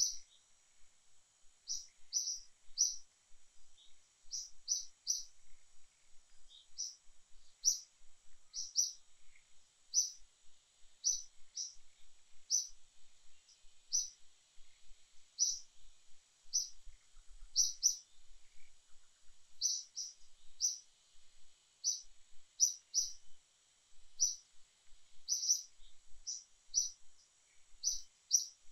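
A bird chirping: short high notes repeated irregularly, about one or two a second and often in quick pairs or threes, over a faint steady high-pitched hiss.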